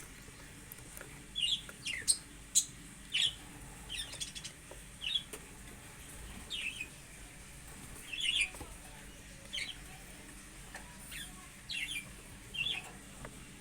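Budgies chirping: short, high calls repeating irregularly about once or twice a second, with a few sharp clicks among them.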